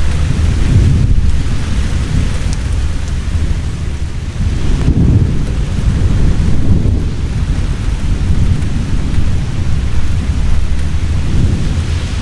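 Heavy rain pouring steadily, with rolling thunder rumbling low underneath in several swells, about a second in, around five seconds and near the end.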